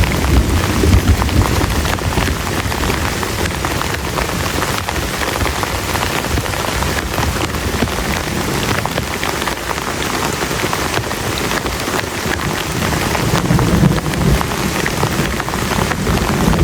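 Heavy rain falling hard and steadily on a surface, with low thunder rumbling at the start and again near the end.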